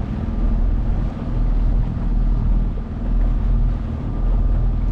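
A 9.8 hp outboard motor running steadily with the boat under way, its drone holding an even pitch.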